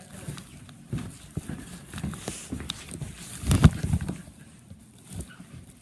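A run of irregular knocks and thumps, with a louder cluster about three and a half seconds in.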